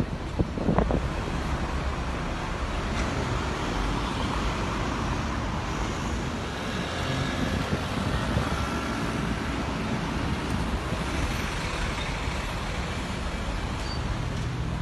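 Busy city street traffic: a steady mix of cars, buses and trucks running through a junction, with a brief louder sound about a second in.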